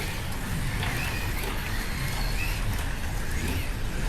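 Slot cars running laps on a plastic track, their small electric motors whining and rising and falling in pitch as they speed up and brake through the corners, over a steady rush of wheels and guides on the track.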